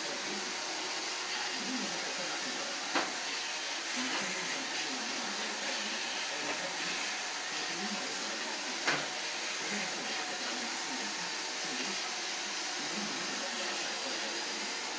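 Roomba robot vacuum running with a steady whirring hiss, broken by two short sharp knocks about six seconds apart.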